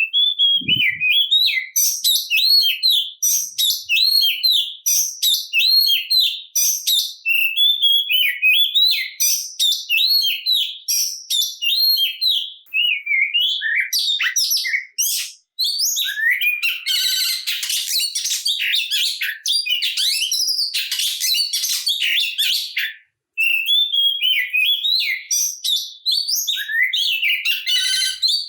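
Oriental magpie-robin (kacer) singing loudly and continuously, a varied song of repeated arching whistled notes. About halfway through it breaks into a dense run of rapid, harsher chattering notes, then returns to whistled phrases.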